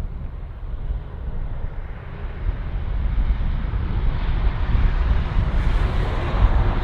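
Jet airliner engines: a steady low rumble with a hiss that grows louder from about halfway through as the aircraft comes closer.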